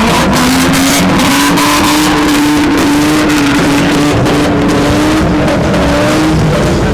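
A lowered Lexus's engine revs up and is held at steady high revs for about six seconds, dropping briefly near the end, over a dense haze of tyre and crowd noise.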